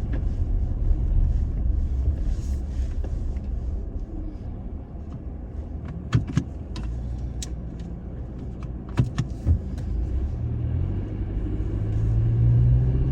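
Toyota Tacoma pickup driving slowly over a rough off-road trail in four-wheel drive: steady low engine and road rumble with a few sharp knocks and rattles about six and nine seconds in, and the engine note rising near the end.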